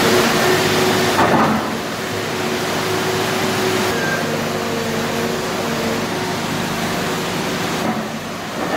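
Excavator's diesel engine running steadily with a hum of several steady tones, louder and noisier for about the first second and a half.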